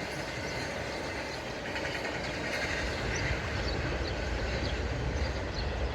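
A train passing in the background, a steady low rumble that grows a little louder toward the end.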